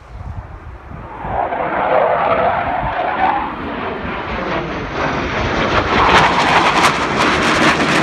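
Military fast jet's engines roaring, growing louder over the first couple of seconds, with a ragged crackle in the second half.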